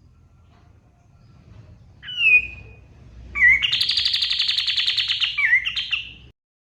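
A kapas tembak songbird singing: a single sliding whistled note about two seconds in, then a loud, rapid, chattering trill lasting about three seconds that cuts off suddenly.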